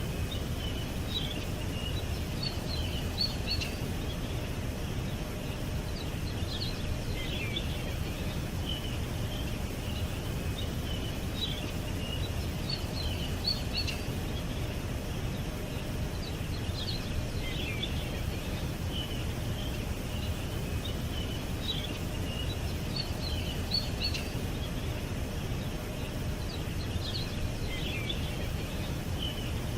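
Small birds chirping and calling in short high clusters every few seconds, over a steady low outdoor rumble.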